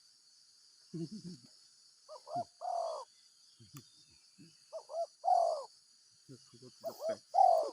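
Spotted dove cooing: three phrases a couple of seconds apart, each two short notes followed by a longer falling coo, over a steady high buzz of insects.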